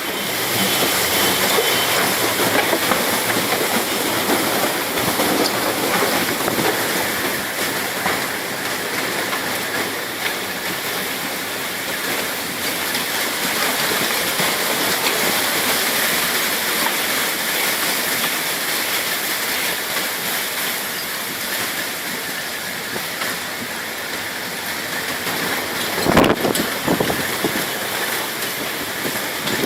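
Steady roar of a violent storm: wind and driving rain rushing without letup, with a brief louder burst near the end.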